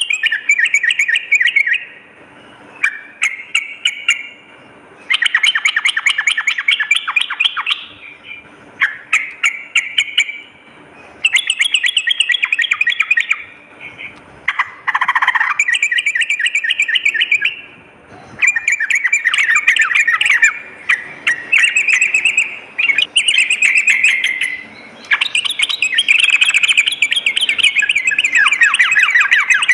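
Yellow-vented bulbul (trucukan) singing: about a dozen separate phrases of rapid, bubbly chattering notes, each one to three seconds long, with short pauses between.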